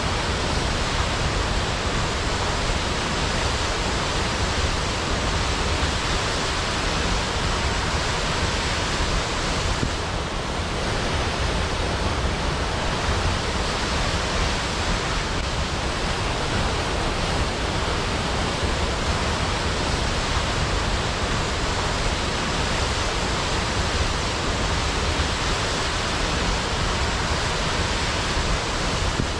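Waterfall: steady, dense rushing of falling water, an even noise with a strong low rumble and no distinct splashes.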